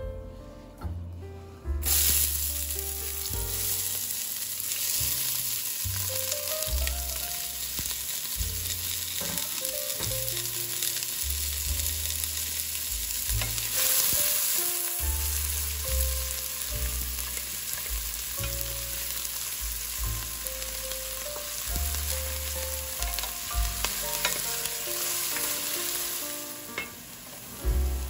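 Chopped onion and green pepper sizzling in hot oil in a stainless steel pot. The sizzle starts suddenly about two seconds in as the vegetables go in, runs on steadily while they are stirred with a wooden spoon, and eases near the end.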